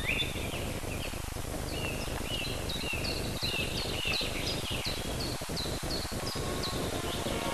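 Small bird chirping: a long run of short, quick notes, alternating higher and lower, about two to three a second, over the steady hiss of an old film soundtrack.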